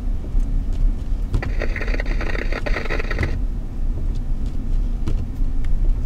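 Car running at low speed on a snowy road, heard inside the cabin as a steady low rumble of engine and tyres. About a second and a half in, a scanner radio transmission comes through for about two seconds.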